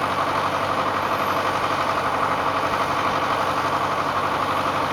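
Tractor engine idling steadily with an even, rapid pulse while the engine is being warmed up in the cold.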